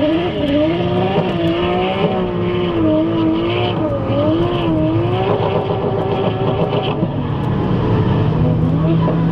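Nissan S14 drift car's 2JZ-GTE straight-six held at high revs while drifting, its note wavering up and down with the throttle, with tyre squeal over it. The engine note settles lower near the end.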